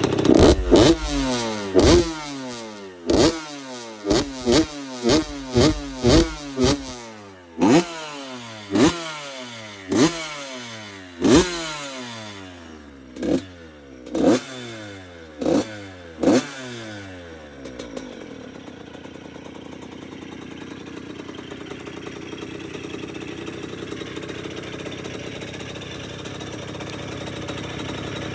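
Yamaha YZ85's 85cc two-stroke single-cylinder engine having its throttle blipped over and over, each rev dropping quickly back down, about fourteen times. The engine then stops about two-thirds of the way through, leaving a faint steady hum. The owner thinks the engine needs a jet kit.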